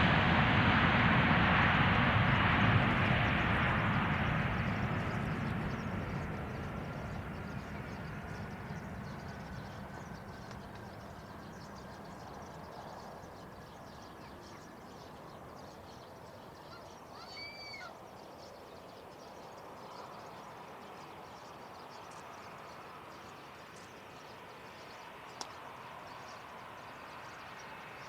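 Jet airliner's engine noise fading away as the aircraft moves off, with a faint whine that slowly falls in pitch. A short bird chirp comes about two-thirds of the way through.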